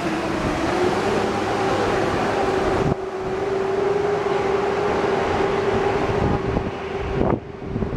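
A train running past close by: loud, steady rail noise with a steady tone held underneath. It drops away suddenly near the end.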